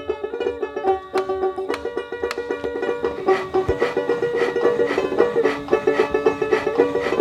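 Dotara, the fretless plucked folk lute with a goat-skin belly, playing a quick picked melody of bright, banjo-like notes. The picking grows busier and a little louder about three seconds in.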